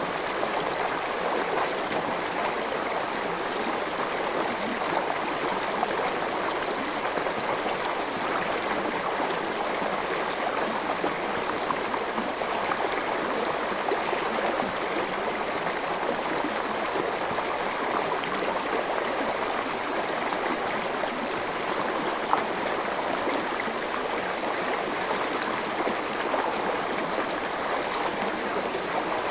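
Forest stream flowing steadily, an even rush of water with no pauses. One brief click stands out about 22 seconds in.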